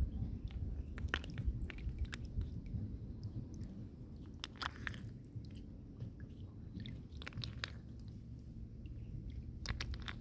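Scattered small clicks and crunches over a low rumble, typical of hands rummaging through wet mud and shells while catching snails and crabs by hand.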